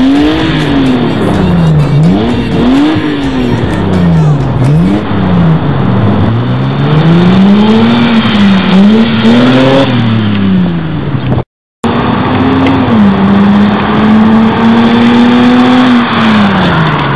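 Car engine revving up and down, its pitch rising and falling over and over. The sound cuts out briefly about eleven seconds in, then the engine holds a steady pitch before dropping away near the end.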